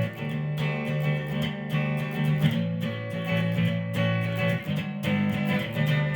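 Instrumental intro of a song: guitars strumming over a held bass line, with no singing yet.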